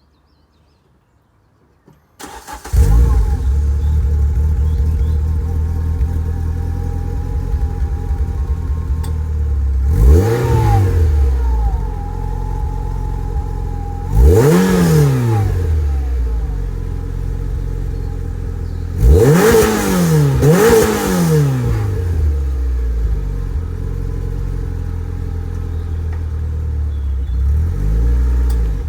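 Renault Clio 182 Trophy's 2.0-litre four-cylinder engine starting through a Milltek cat-back exhaust about two seconds in, then idling with four stationary throttle blips (the last two close together) and a smaller blip near the end, each rev climbing quickly and falling back more slowly.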